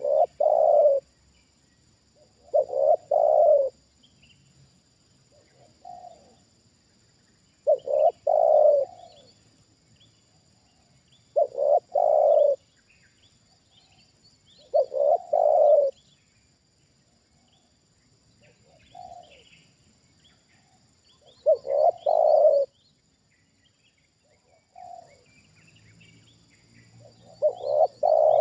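Spotted dove cooing: a series of loud, low cooing phrases repeated every three to four seconds, with a few fainter single coos in between. Small birds chirp faintly in the background.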